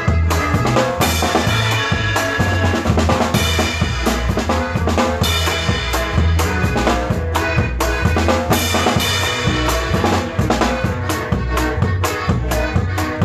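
A live conjunto band plays with a steady drum-kit beat of kick, snare and rimshots over a walking bass line.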